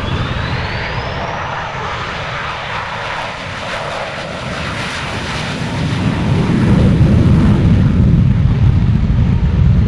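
F/A-18 Super Hornet's twin jet engines at high power on a low pass, as in a go-around after a missed arrestor wire (a bolter). A whine rises in pitch over the first second or so, and a deep rumble swells from about six seconds in.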